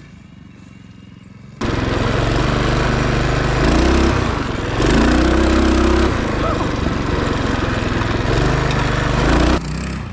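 Minibike's small engine, faint at first, then loud and close from about a second and a half in, its revs rising and falling several times before it drops away near the end.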